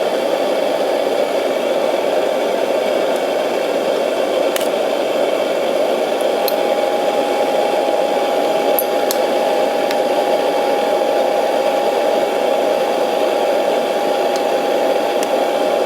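A kitchen appliance running with a steady fan whir, joined by a steady hum-like tone about six seconds in, with a few faint ticks.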